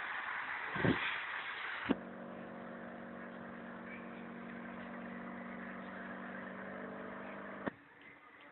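Blackpool heritage tram running: a noisy rumble with two low thumps in the first two seconds, then after an abrupt cut a steady, even hum of several tones that stops abruptly about a second before the end, leaving a quieter background.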